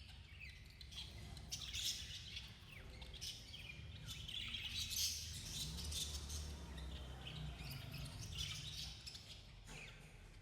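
Budgies chirping and chattering in quick, overlapping bursts of high chirps, with a steady low hum underneath.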